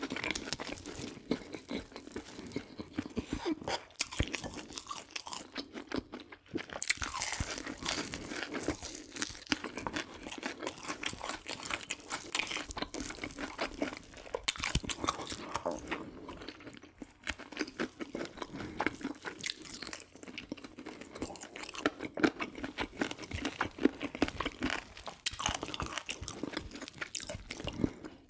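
Close-miked chewing of crispy fried chicken: continuous crackly crunching bites and chewing of the crisp coating, with a couple of brief pauses.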